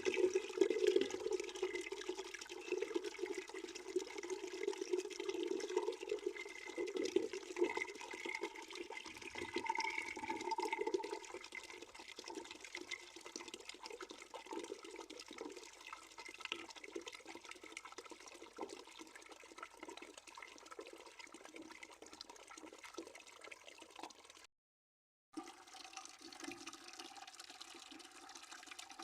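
Water streaming into a bucket, a steady splashing rush with a hollow ring from the bucket. It eases to a softer flow about a third of the way in, and the sound cuts out completely for under a second near the end.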